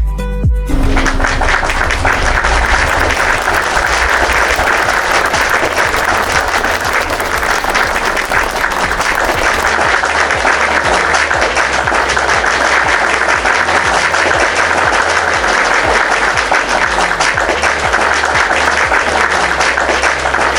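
Crowd applauding with steady, dense clapping, over background music with a bass line.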